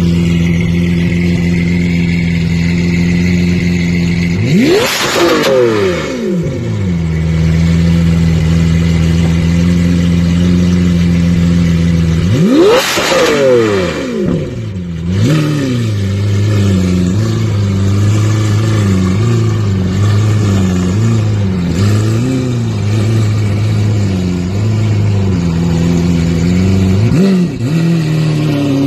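Lamborghini Aventador SV's V12 engine through an iPE exhaust, idling and then revved hard twice, each rev climbing sharply and dropping back to idle. After that it is blipped repeatedly in quick succession, the pitch rising and falling over and over, with one more short blip near the end.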